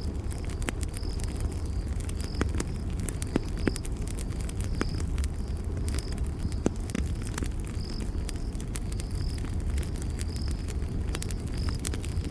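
Campfire crackling, with frequent sharp pops over a low steady rumble of burning wood. Crickets chirp alongside in short high pulses, about two a second.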